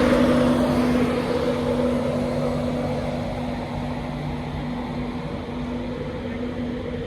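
A train's engine or traction drone, a steady hum with a few held tones, fading over the first few seconds and then holding steady.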